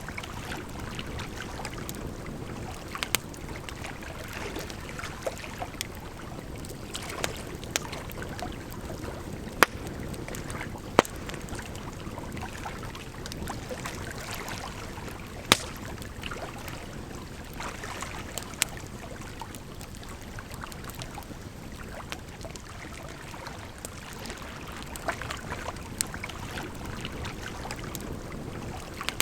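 Campfire crackling, with sharp irregular pops every few seconds over a steady rush of running water.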